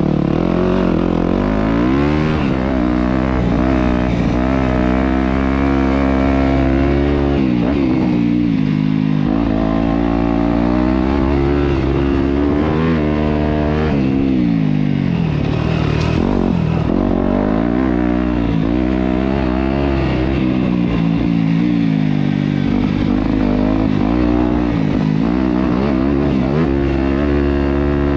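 Yamaha YZ250F's 250cc single-cylinder four-stroke engine riding hard, its pitch climbing and dropping over and over as the throttle is opened and closed and the rider shifts gears.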